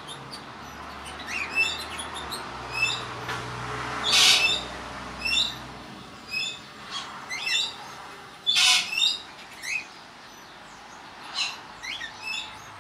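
Pet parrots calling: a run of short, repeated chirping calls, broken twice by a louder, harsh screech, once about a third of the way through and again about two-thirds through.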